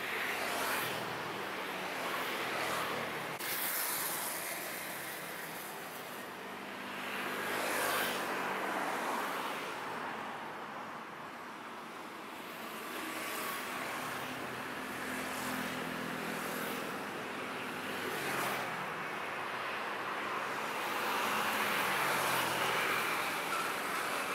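Train running past, a steady rumble with a low engine hum that swells and eases several times, with occasional sharp clacks.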